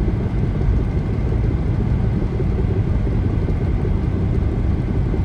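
A car cruising at highway speed: a steady low rumble of tyres on the road and the engine.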